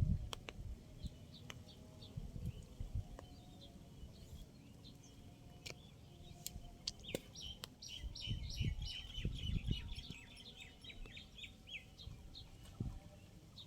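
A bird calling: scattered short chirps, then a rapid run of chirps from about halfway through that lasts several seconds. Irregular low thumps and rumbles lie underneath.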